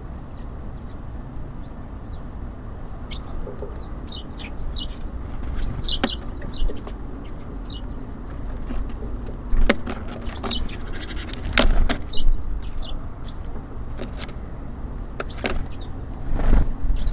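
Small songbirds at a feeder chirping with quick, high, short notes, with several sharp knocks and a steady low rumble of city traffic behind.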